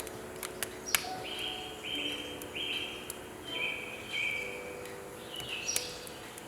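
Wood fire crackling in a wood stove, with a few sharp pops, while birds chirp repeatedly and soft sustained music plays underneath.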